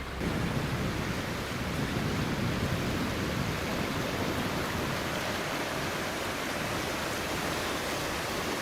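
Steady rushing of a fast-flowing stream running high with snowmelt.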